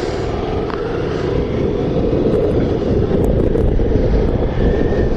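Motorcycle running steadily at riding speed: an even engine drone mixed with wind rush on the microphone.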